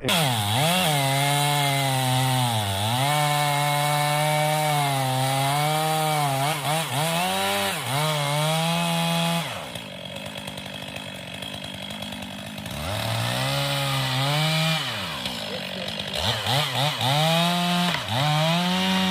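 Chainsaw running at high revs while cutting a downed tree, its pitch dipping briefly several times. About ten seconds in it drops to a quieter idle for a few seconds, then revs back up twice.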